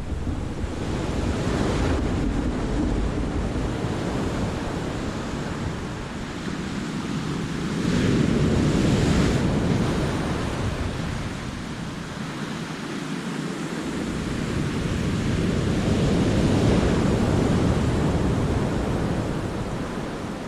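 Sea waves surging and breaking into a rocky cove, a steady wash of surf that swells louder twice, about eight seconds in and again near sixteen seconds. Wind buffets the microphone underneath.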